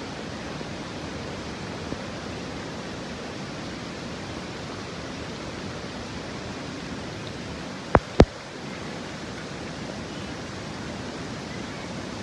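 Steady hiss of heavy rain. Two sharp clicks in quick succession come about two-thirds of the way through.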